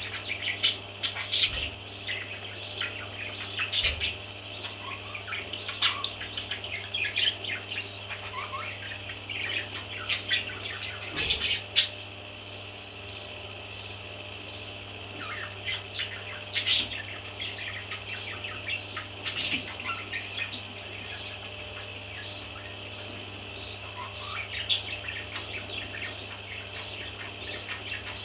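Baby parrots chirping in a dense, overlapping chorus of short high calls, thinning out for a few seconds at times, over a steady low hum.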